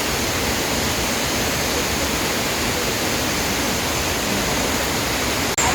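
Steady rush of flowing river water, an even noise with no let-up, broken by a brief dropout just before the end.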